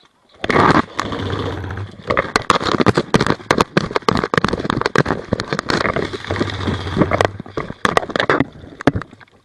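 Rapid airsoft gunfire: dense runs of sharp cracks and clicks, with a low hum under two of the stretches, starting about half a second in.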